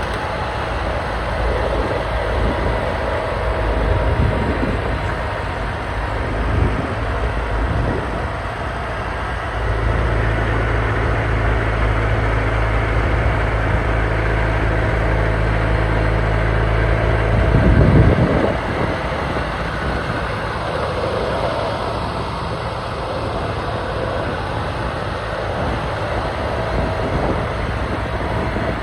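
John Deere 420 garden tractor's air-cooled twin-cylinder engine running steadily under snowblower load, with a brief rise in pitch about two-thirds of the way through.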